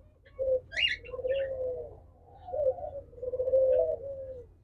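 Diamond doves cooing: a series of soft, low, drawn-out coos, with a few brief higher chirps about a second in.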